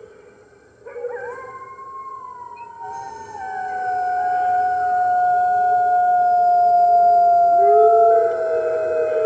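Wolves howling in chorus: several long, slowly falling howls at different pitches overlap. They start about a second in, grow louder from about three seconds in, and a lower voice joins near the end.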